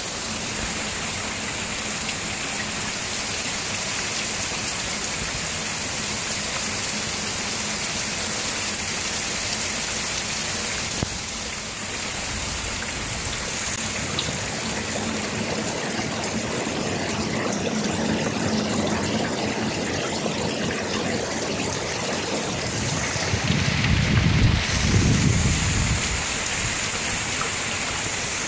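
Heavy rain falling steadily, a constant hiss. About three quarters of the way through, a low rumble swells for a few seconds and fades.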